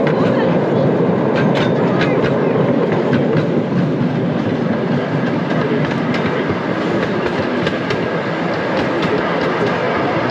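Open passenger cars of a small park train rolling along the track: a steady rumble of the ride with scattered clicking and clacking of the wheels, most of it in the first few seconds.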